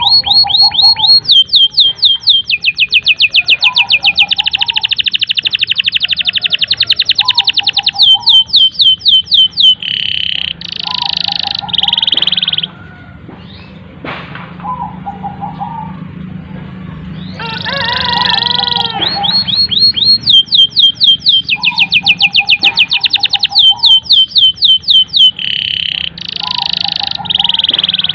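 Domestic canary singing a long, loud song: fast trills of rapidly repeated rising notes alternating with flat, buzzy rolls and separate lower chirps. The same run of phrases starts over about halfway through, over a steady low hum.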